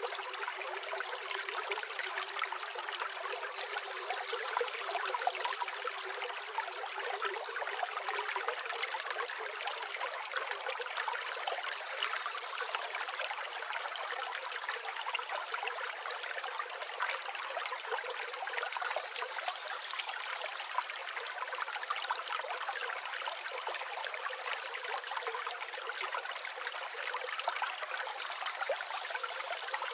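A flowing river: a steady rush of water made of many small splashes, with no deep rumble.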